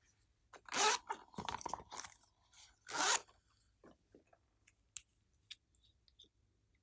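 Crinkly, crackling handling noises from slime-mixing materials. There are two louder bursts, about a second in and about three seconds in, with crackling between them, then a few small clicks.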